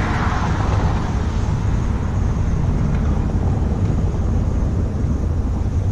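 1991 Dodge W350 pickup's 360 V8 engine running steadily under load as a low rumble, with a hiss that fades after the first second or so.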